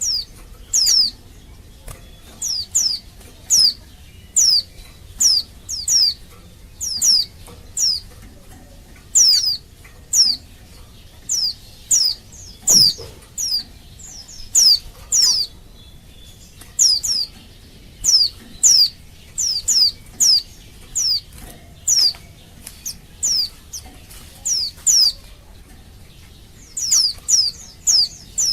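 Female white-eye (pleci) calling: short, high notes that fall in pitch, given in quick groups of two to four and repeated about once a second.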